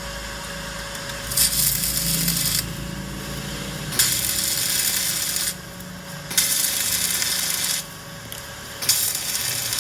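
Electric arc welding: four bursts of crackling sizzle, each about a second or a second and a half long and starting sharply as the arc is struck, over the steady hum of the welding machine.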